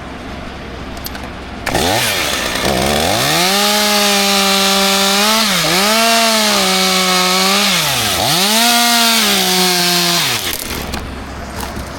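Two-stroke chainsaw revving up to full throttle about two seconds in and running flat out for some eight seconds, cutting wood, with two brief drops in engine speed before it is let off to idle.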